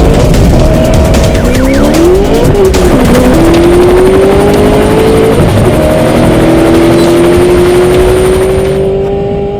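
Car engines at high revs: the pitch climbs, drops sharply about two and a half seconds in and again about five and a half seconds in, then holds high and steady, over a constant haze of noise. It all fades out at the end.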